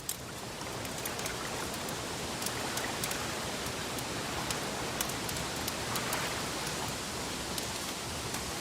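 Wood fire crackling: a steady hiss with scattered sharp pops.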